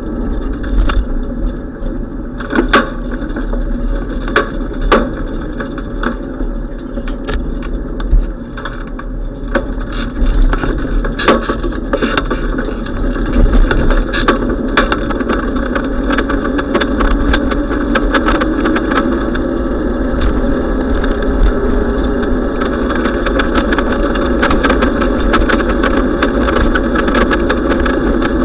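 Steady wind-and-road rumble from a moving bicycle, with frequent sharp knocks and rattles, more of them in the first half.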